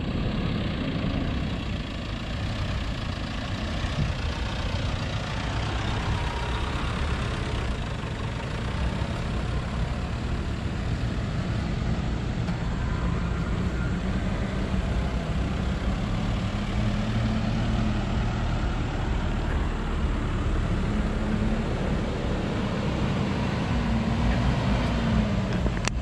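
Engines of 4x4 pickups and SUVs driving slowly one after another across a dirt clearing at low revs, the engine pitch rising and falling gently as they pass.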